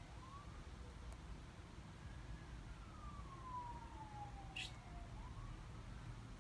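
Faint emergency-vehicle siren wailing, its single tone rising and falling slowly, one full sweep taking about five seconds. A brief sharp click sounds about four and a half seconds in.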